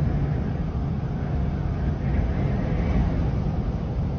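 A steady, loud, low rumble, like a heavy engine running.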